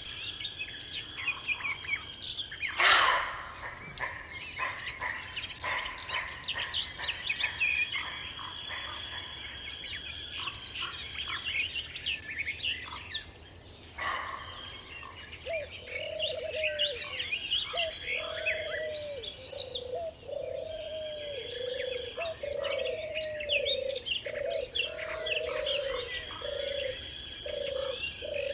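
Many birds chirping and singing together, with several high notes held for a few seconds at a time, and a brief loud burst about three seconds in. From about halfway through, a lower call repeats roughly once a second.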